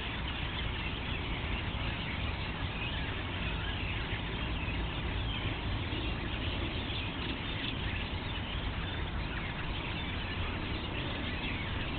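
Several wild birds chirping and singing at once in a busy chorus of many short calls, over a steady low background rumble.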